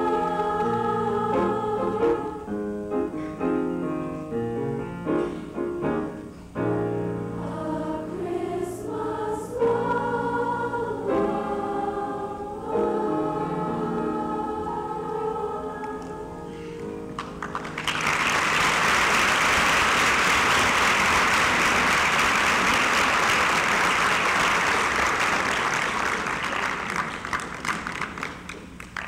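A school choir singing a song to its close, followed about two-thirds of the way through by audience applause that fades out near the end.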